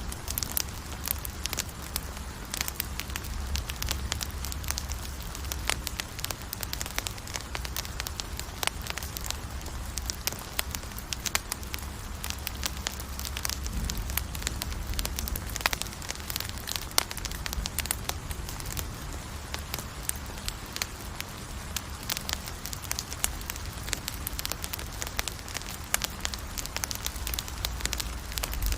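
Wood fire burning steadily, with dense, irregular crackles and pops over a low rumble of the flames.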